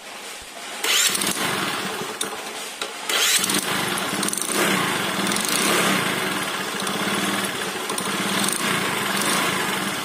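Bajaj Discover 100's single-cylinder four-stroke engine being started, catching after a second surge and running unevenly at a low idle, then dying away near the end. It will not hold idle because the idle setting needs readjusting after the valve adjustment.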